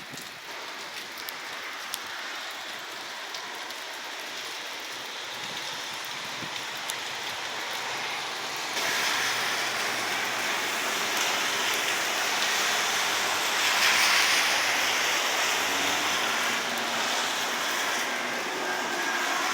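Heavy rain falling in a steady hiss that turns suddenly louder about nine seconds in and swells further a few seconds later.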